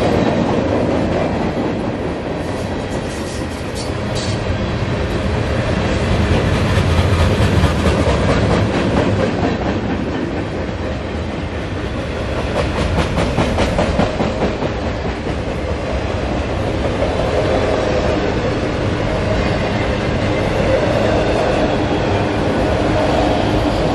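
Freight cars rolling past on steel rails: a steady rumble of wheels on track, with runs of rapid clickety-clack about three and twelve seconds in as the wheel sets cross rail joints.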